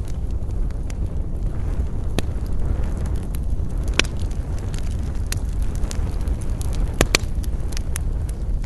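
Wood fire burning with a steady low rumble and scattered crackles and pops, the sharpest at about four seconds and a quick pair of pops about seven seconds in.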